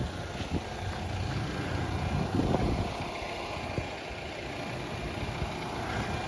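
Outdoor air-conditioning condensing unit running, a steady mechanical hum of its compressor and fan.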